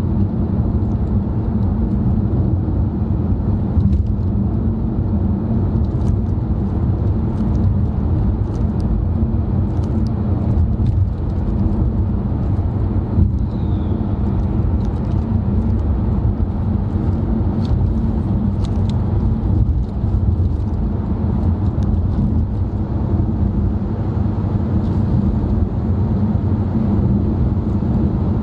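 Steady road noise inside a moving car's cabin: a low, unbroken drone of tyres and engine, with a few faint small clicks.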